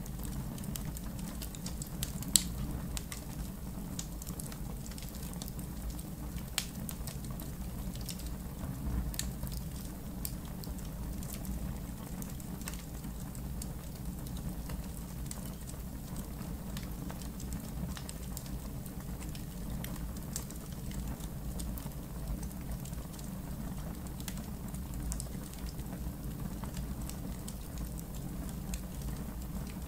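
Campfire in a backyard fire pit crackling, with scattered small pops over a low steady rumble. One sharper pop comes about two seconds in.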